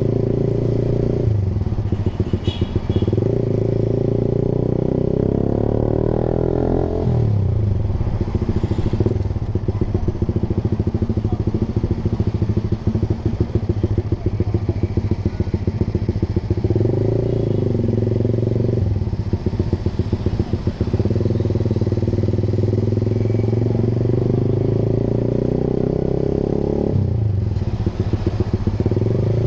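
Honda Sonic 150R's single-cylinder four-stroke engine through an aftermarket Proliner TR1 short exhaust, ridden on the road. The exhaust note holds steady for stretches, climbs in pitch about five seconds in, then drops. It shifts up and down several more times as the throttle is opened and eased.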